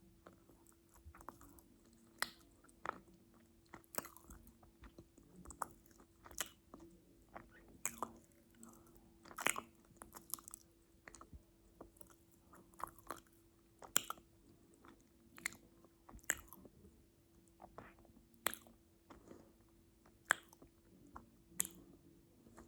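Close-miked chewing of crunchy food: sharp, irregular crunches and mouth clicks, about one or two a second, over a faint steady hum.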